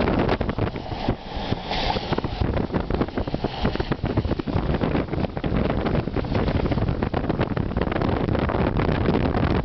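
Wind buffeting the microphone in uneven gusts, a loud, continuous rumble.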